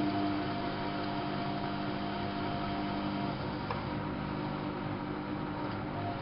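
Whirlpool AWO 5346 washing machine running with a steady motor hum over a whirring noise, with a faint click a little after halfway.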